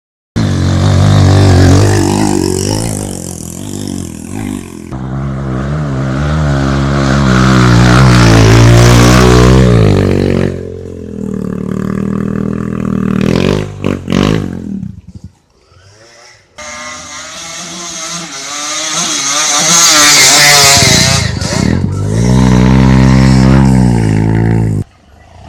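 Off-road dirt bike engines revving up and down as they ride, in several short clips joined by abrupt cuts; the engine sound drops away for about a second around the middle.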